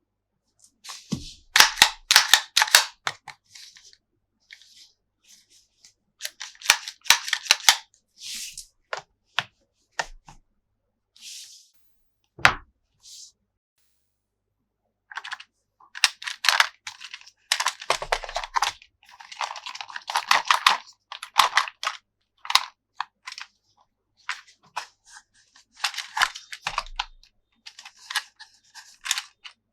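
Irregular clusters of sharp plastic clicks and crackling from a toy and its packaging being handled, with short pauses between the bursts.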